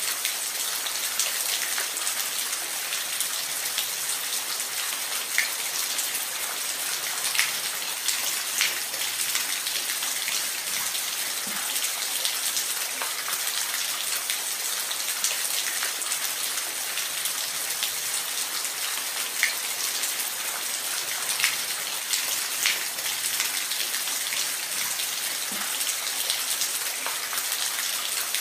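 Steady rain falling, an even hiss with individual drops ticking every second or so.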